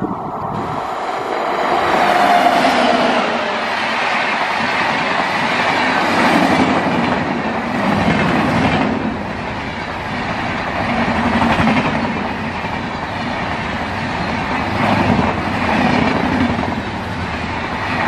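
Express passenger train hauled by a WAP-7 electric locomotive passing close by at about 112 km/h. The coaches rush past with a dense rhythmic clatter of wheels over the rail joints, rising and falling in loudness as the bogies go by.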